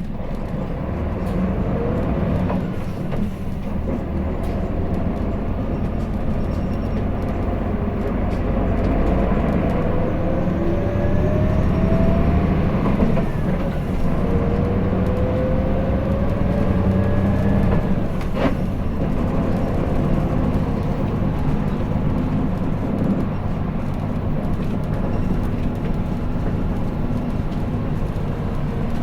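Hino Blue Ribbon City diesel city bus heard from inside, pulling away from a stop and accelerating. The engine note climbs several times with drops between as it shifts up through the gears, then settles to a steady run over a constant low rumble. There is a single sharp click about two-thirds of the way through.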